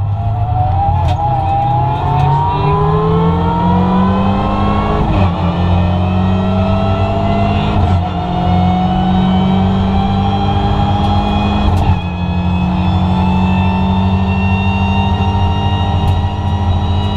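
Ford Fiesta ST150 rally car's 2.0-litre four-cylinder engine, heard from inside the cabin, accelerating hard under full load. The engine note climbs and drops back at gear changes about five, eight and twelve seconds in.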